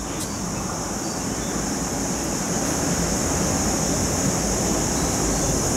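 MTR East Rail line MLR electric train running away down the track: a low, even rumble that swells slightly about halfway through, with a steady high hiss above it.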